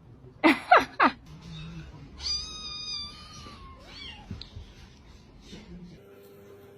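A cat meowing: three quick, loud calls that fall in pitch about half a second in, then one longer, high meow about two seconds in, and a few fainter calls after.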